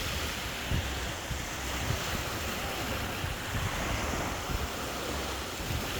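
Mediterranean surf washing steadily onto a sandy beach, with wind buffeting the microphone in low, gusty thumps.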